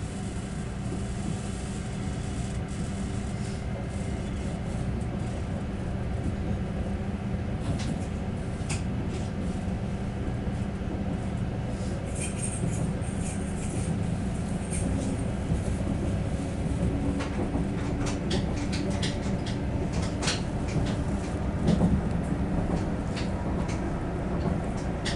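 Steady running noise inside a passenger train carriage under way: a continuous low rumble with scattered clicks and rattles.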